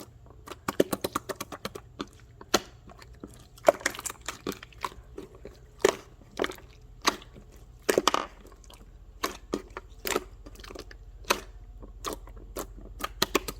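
Irregular sharp clicks and taps at close range, some coming in quick runs of several a second, over a faint low hum.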